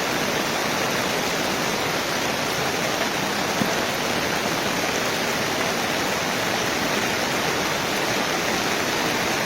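Steady rushing of floodwater, an even unbroken roar of flowing water.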